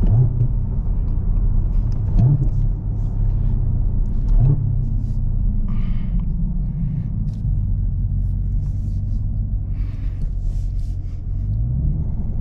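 Supercharged 6.2-litre V8 of a Camaro ZL1 with a six-speed manual, running steadily under way. The revs jump briefly three times early on and climb again near the end.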